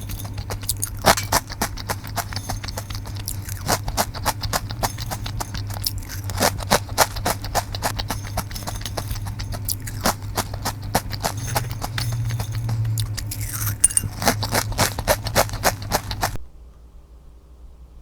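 Close-miked chewing of crunchy Karamucho potato chips: rapid, irregular crisp crunches over a low steady hum. It cuts off suddenly near the end.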